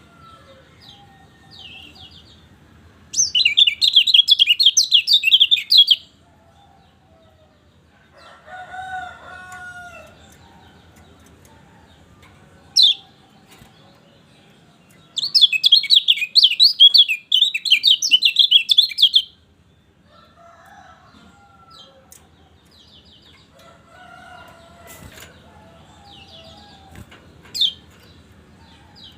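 Kecial kuning white-eye singing two long bursts of fast, high twittering chatter, each about three to four seconds, with a single sharp high note between them and another near the end. Fainter, lower bird calls run in the background.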